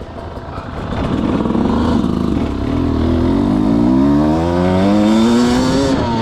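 Dirt bike engine accelerating, its pitch climbing steadily as it gains speed, with a short dip in pitch about two and a half seconds in.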